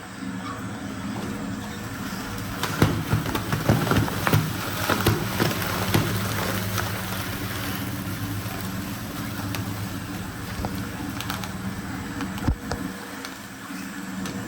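Industrial shredder running with a steady motor hum, with irregular sharp cracks and crunches of material being torn, thickest in the first half and with one louder crack near the end.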